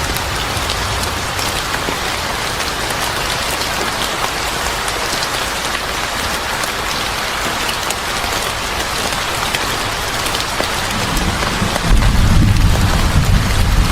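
Steady heavy rain pattering on a surface, with a low rumble of thunder rolling in near the end.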